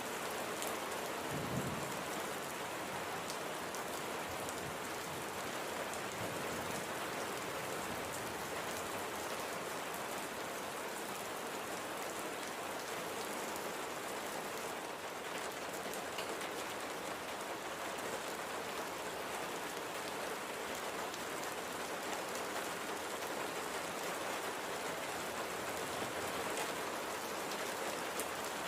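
Steady light rain falling, with the patter of individual drops hitting a surface; a brief low thump about a second and a half in.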